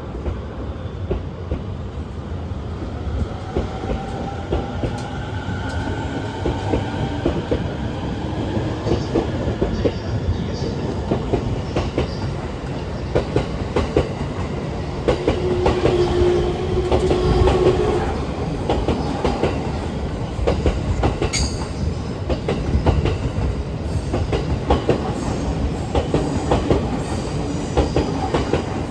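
E231 series electric train moving off under power: the traction motors whine in tones that rise in pitch over the first several seconds, over a continuous rumble and rapid clicking of wheels over rail joints. A steady squeal lasts a few seconds near the middle.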